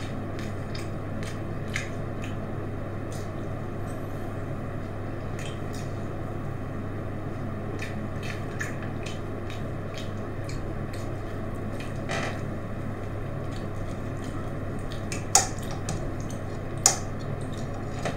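Close-miked chewing and mouth sounds of a person eating telur gulung (soft rolled egg on skewers), with scattered small clicks and two sharper clicks about a second and a half apart near the end, over a steady low hum.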